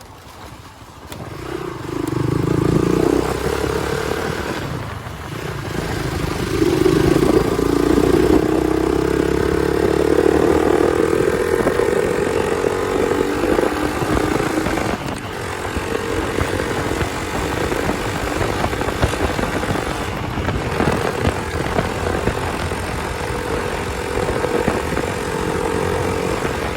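Hero Xpulse 200's single-cylinder engine running through an aftermarket exhaust as the motorcycle is ridden. The note swells about two seconds in, eases off, rises again around seven seconds, then holds fairly steady.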